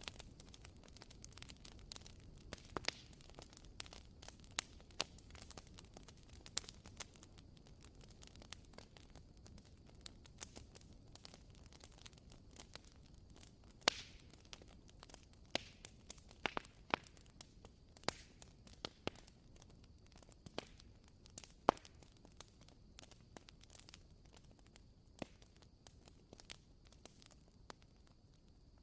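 Wooden wick of a WoodWick candle crackling: irregular small pops and snaps, a few louder than the rest, like a tiny campfire.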